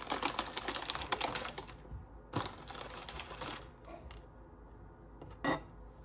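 Rapid clattering clicks in two bursts, then a single sharp click near the end.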